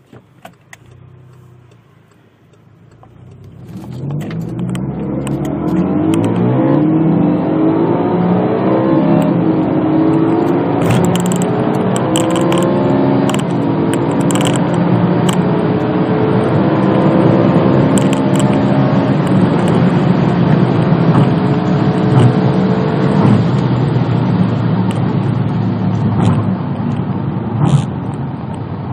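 Volkswagen Golf GTI's turbocharged 2.0-litre four-cylinder under hard acceleration. The engine note swells in about three seconds in and climbs quickly in pitch, then holds loud and high at speed.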